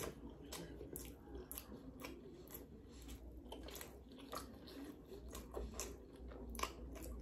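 A person chewing a mouthful of steak-and-cheese hero sandwich with the mouth closed. The chewing is faint, with irregular wet mouth clicks.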